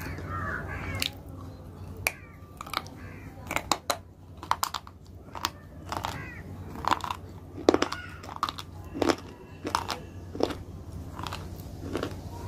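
Close-miked eating sounds: crisp crunches and chewing at irregular intervals, a few every second or so, over a steady low hum.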